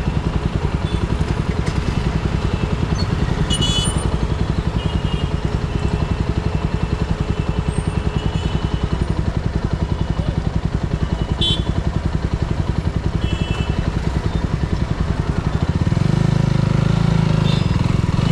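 Motorcycle engine running at low speed with an even, steady pulse, picking up and getting louder near the end. A few short high sounds cut in over it.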